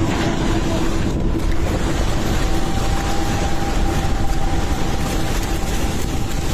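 Swollen floodwater rushing past in a loud, steady roar of water noise, with a faint steady hum running underneath.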